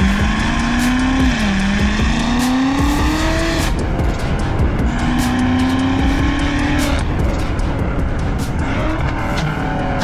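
THOR electronic exhaust sound generator on a BMW X5 playing a simulated engine note through its speaker, rising and falling in pitch like revs. The note climbs for the first few seconds, breaks off, then comes back steadier before dropping again.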